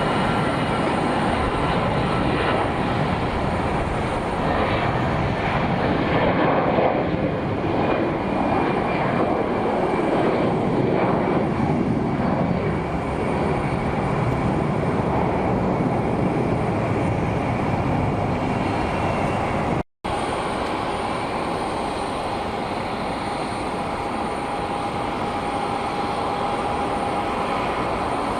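Jet aircraft engine noise, swelling and sweeping in pitch as a plane passes. About two-thirds in the sound drops out for a split second, then continues as a steadier engine rush with a faint whine.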